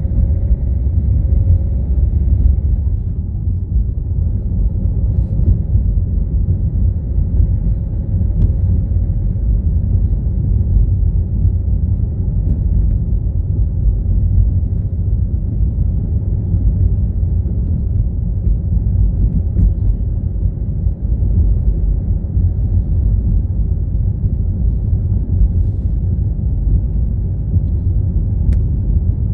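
Car driving along at a steady pace: a constant low road and engine rumble.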